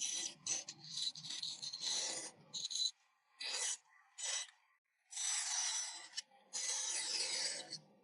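A hand tool cutting and scraping across a wooden board in strokes: a quick run of short strokes for about three seconds, two brief ones, then two longer strokes of about a second each.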